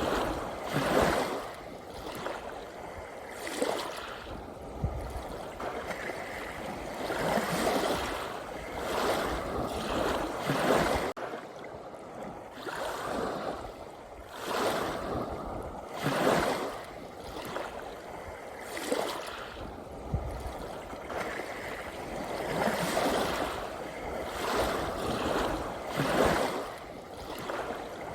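Sea waves washing in, surging and falling back every few seconds in an uneven rhythm over a steady hiss of water.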